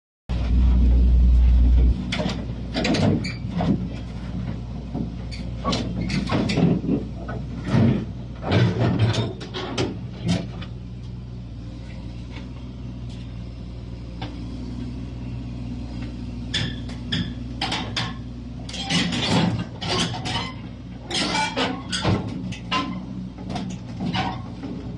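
Komatsu crawler excavator's diesel engine running steadily with a low hum, a loud low rumble in the first two seconds, and frequent short clanks and knocks of the machine working.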